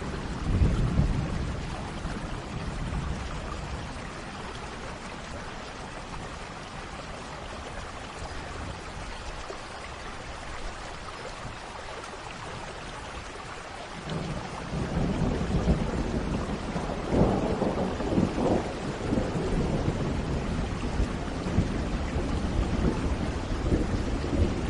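Steady rain with rolling thunder. A short rumble comes at the start; after a quieter stretch of rain, a longer, louder roll of thunder begins a little past halfway and runs on.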